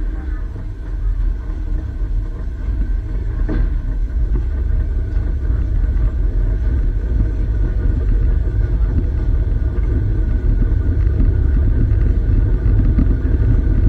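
Low rumble of a historic train carriage rolling slowly along a station platform, growing louder as it gathers speed, with a single sharp knock about three and a half seconds in.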